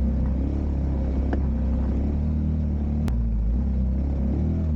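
Motor vehicle engine running with a steady, deep drone, as on a drive, with a sharp click about three seconds in.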